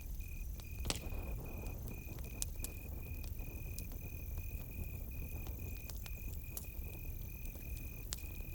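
Campfire crackling, with scattered sharp pops over a low steady rumble and one louder pop about a second in. A cricket chirps steadily behind it in a high pulsing trill, about three pulses a second.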